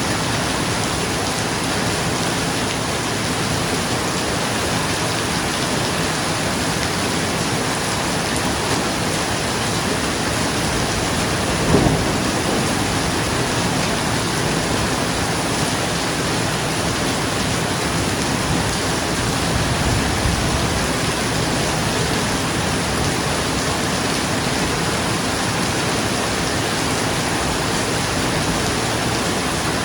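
Steady rain falling on a roof, with a sudden short crack of thunder about twelve seconds in and a softer low rumble of thunder around twenty seconds.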